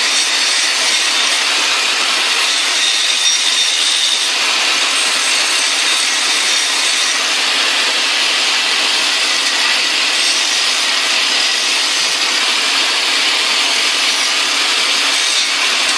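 Angle grinder grinding metal steadily, taking the high spots and dings off the sliding part of a bench vise so it moves smoothly. The sound changes a little about four seconds in.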